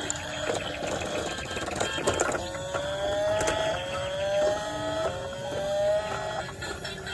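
Toy car engine sound effect revving up through gears: a whining tone climbs for about a second, drops back and climbs again four times, as if shifting up, after some plastic clicks and rattles.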